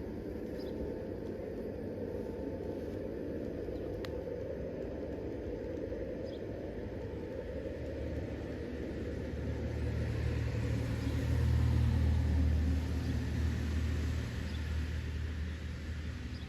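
A low rumble that swells from about eight seconds in, peaks a few seconds later and fades again, like something heavy rolling past close by, over steady outdoor background noise.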